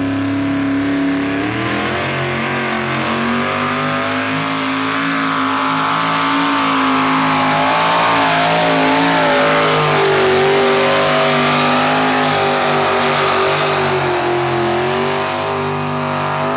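A pulling truck's engine running loud at high revs under heavy load, its pitch rising early on and then wavering up and down through the pull.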